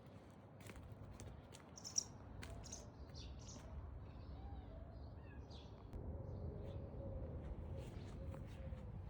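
Small birds chirping a few short times, with a sharp click about two seconds in; from about six seconds in a low rumble rises with a faint wavering tone under it.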